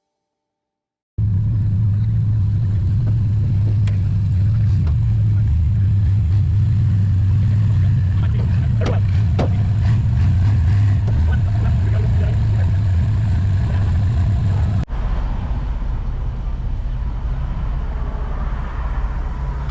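Steady low rumble of a vehicle under way, engine and road noise, starting after a moment of silence and changing abruptly at an edit about three-quarters through.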